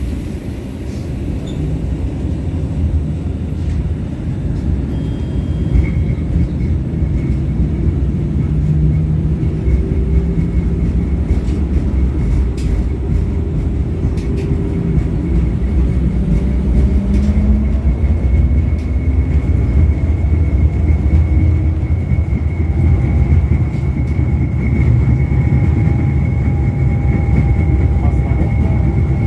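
LVS-86K tram running between stops, heard from inside the passenger cabin: a steady low rumble of wheels on rail with the traction motors whining. The whine rises slowly in pitch as the tram gathers speed, and a thin high steady tone joins in a few seconds in.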